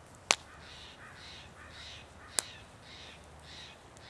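A bird calling outdoors in a quick series of short, harsh caw-like calls, about two or three a second. Two sharp cracks break in, one just after the start and one about two and a half seconds in, louder than the calls.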